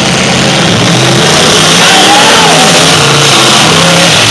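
Demolition derby cars' engines running and revving under a loud wash of noise, with music playing alongside.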